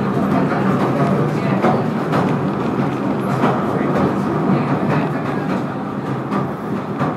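Southend Pier Railway train running steadily, heard from inside a carriage: a continuous rumble of wheels on rails with faint clicks about once a second.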